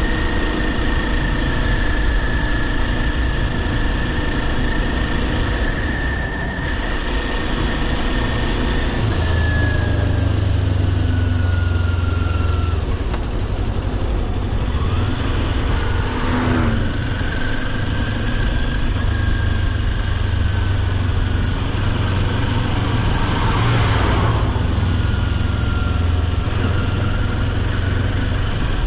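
Kawasaki Ninja 400's parallel-twin engine running under way at a steady pace, its pitch easing down and then holding, with a heavy low rumble of road and wind noise. Two brief whooshes cut across, about halfway through and again near the end.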